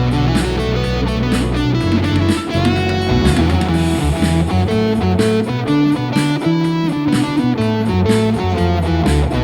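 Blues-rock instrumental break: an electric guitar plays a lead line with bent notes over bass and drums.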